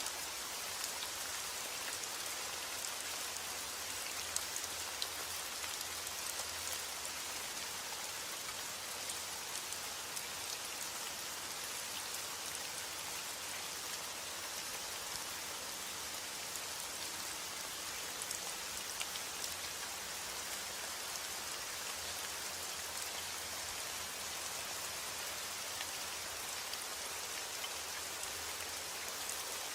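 Steady heavy rain falling on a roof, an even hiss with individual drops ticking through it.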